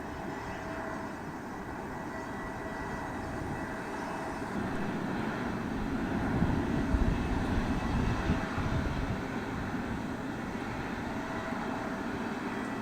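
Jet airliner engines passing, a deep rumble that builds to its loudest about seven seconds in and then eases off.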